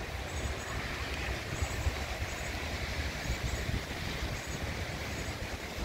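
Steady rain falling, an even hiss, with a low, uneven rumble underneath.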